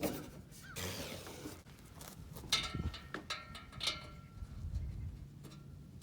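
Hand tools being handled: several sharp metallic clicks and knocks, with a short scraping rustle about a second in.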